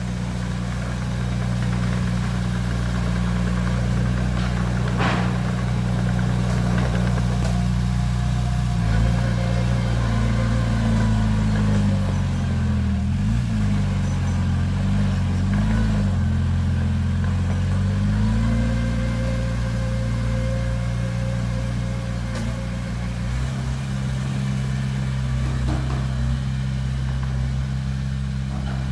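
Heavy machinery diesel engine running steadily. Between about nine and nineteen seconds in, its pitch rises and falls as the engine is worked, then it settles back to a steady run. A single sharp knock about five seconds in.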